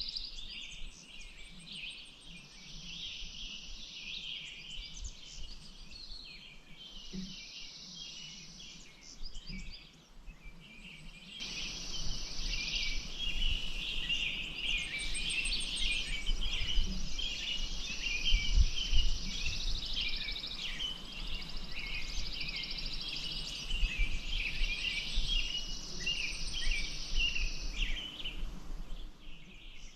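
Many songbirds chirping and singing at once, over a high steady buzz that comes and goes in stretches of a few seconds. About a third of the way in, a steady rushing hiss of water comes in abruptly and runs until near the end.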